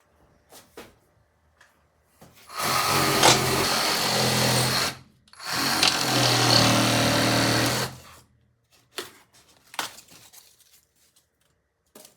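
Reciprocating saw (Sawzall) cutting into foam in two steady runs of about two and a half seconds each, with a short pause between, followed by a few light knocks.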